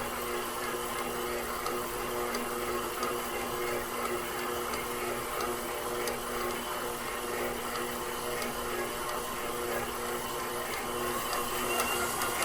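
KitchenAid Professional 6000 HD stand mixer's DC motor running steadily at a raised speed, its spiral dough hook kneading bread dough. The load is light: the butter-slicked dough slides around the bowl without forming a ball.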